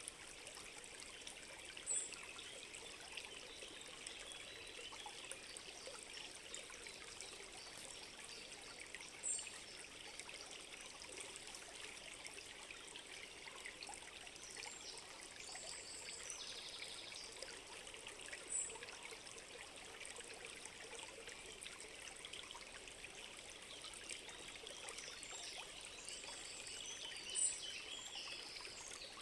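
A forest stream trickling steadily, with birds calling over it. A short high call comes four times, about nine seconds apart, and is the loudest thing heard. Softer chirping comes around the middle and near the end.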